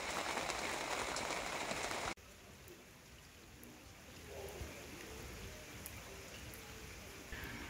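Rain falling on a window pane: a dense, steady hiss of drops. It cuts off abruptly about two seconds in, giving way to a much quieter ambience of light rain outdoors.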